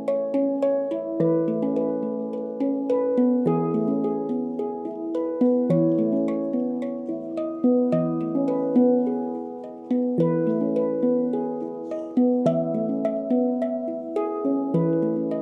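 Handpan played by hand: a steady flow of struck, ringing steel notes over a deep bass note that comes back about every two seconds.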